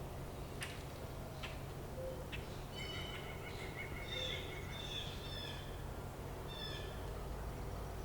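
Small birds chirping and twittering in short repeated high calls over a steady low background rumble, with a few sharp clicks in the first couple of seconds.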